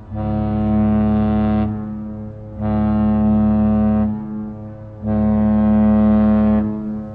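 Deep ship's horn sounding three long, steady blasts of about a second and a half each, low in pitch and rich in overtones, with a fading echo between blasts.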